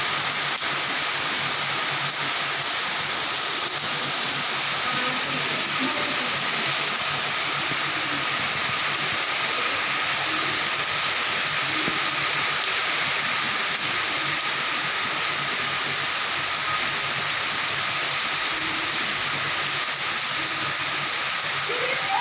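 Heavy rain falling, a steady even hiss that holds at one level throughout.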